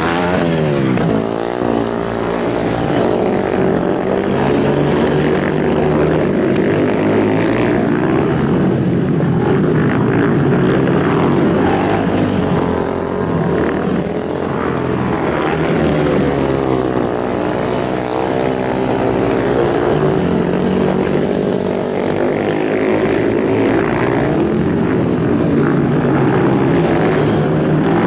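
Several motorcycle engines running together, their pitches rising and falling as they rev and pass, with no break.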